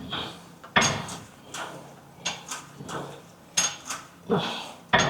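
Gym weights clanking: about seven sharp metallic knocks, irregularly spaced over a few seconds, each with a short ring.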